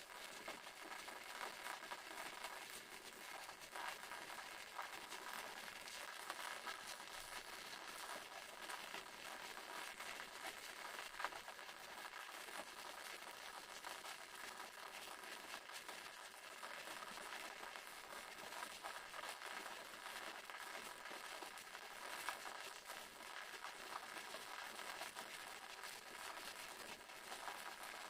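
Small waterfall: water falling steadily, a faint, even hiss with little low rumble in it.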